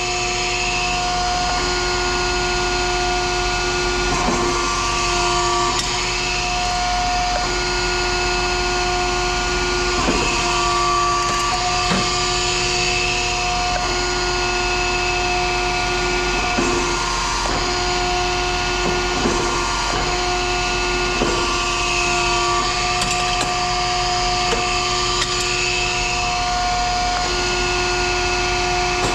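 A machine hums steadily at one constant pitch, with scattered clicks and knocks over it.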